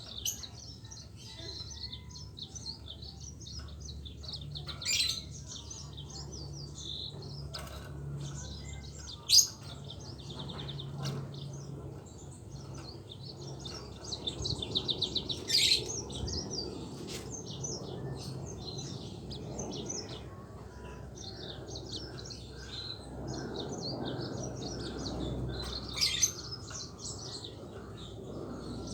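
Yellow-fronted canary (Mozambique canary) singing continuously in quick high chirping phrases, with fast rolling trills about five and fifteen seconds in. A low steady hum runs underneath, and there is a sharp click about nine seconds in.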